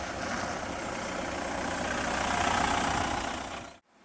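A vehicle engine running steadily with a low rumble, growing a little louder about two seconds in, then cutting off abruptly near the end.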